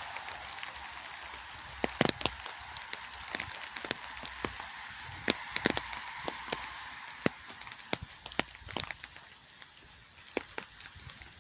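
Rain falling: a steady hiss with irregular sharp taps and drips of single drops landing close by, easing off a little near the end.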